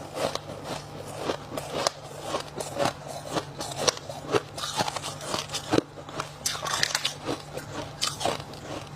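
Close-up crunching of freezer-frost ice sticks being bitten and chewed: many crisp, irregular crunches, several a second.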